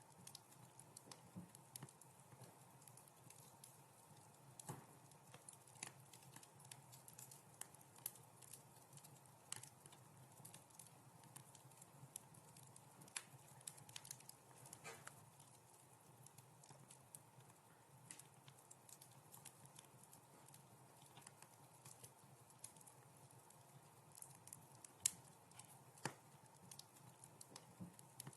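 Wood fire crackling: irregular sharp pops and snaps over a faint steady hiss, with a louder pop near the end.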